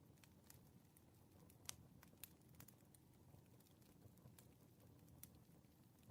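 Faint crackling of a wood fire: irregular sharp pops and snaps over a low steady hiss, the loudest pop a little under two seconds in.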